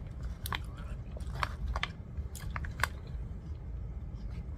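Close-up chewing of soft baked pasta, with several sharp clicks and scrapes of a plastic fork against an aluminium foil tray.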